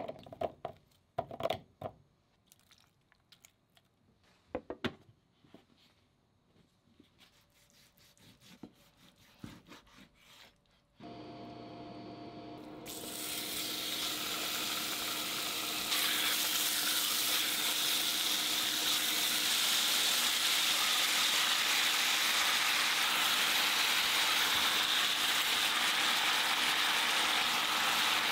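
Pork belly frying in sesame oil in a pot: a dense, steady sizzle that sets in about 13 seconds in and grows louder about three seconds later. Before it come scattered light knocks and clicks from handling kitchenware, then a steady hum that starts about 11 seconds in and runs on under the sizzle.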